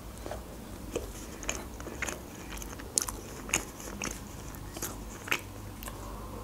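Close-miked chewing of a fast-food burger: moist mouth clicks and soft crunches about two a second.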